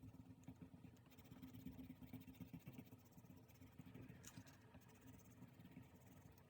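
Faint scratching and rustling of paper and stationery being handled on a diary page, with one light tap a little over four seconds in.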